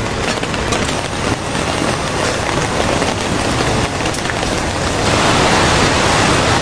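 Rain falling steadily, with scattered sharp drop hits; the hiss gets louder and denser near the end.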